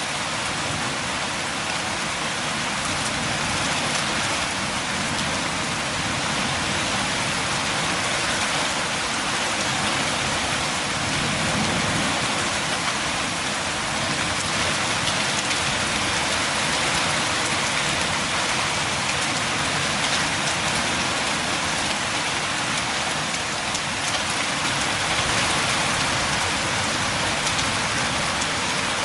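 Steady rain falling: an even wash of many drops that does not change in strength.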